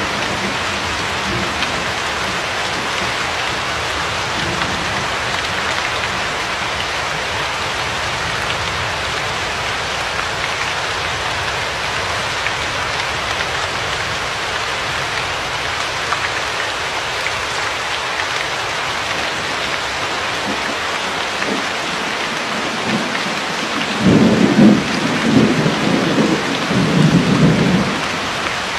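Steady rain, an even hiss throughout, with a roll of thunder rumbling loudly for about four seconds near the end.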